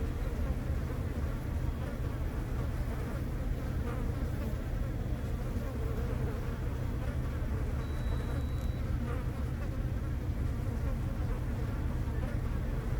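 Honeybee swarm clustered in a tree: the dense, steady buzz of many bees' wings, at even loudness throughout.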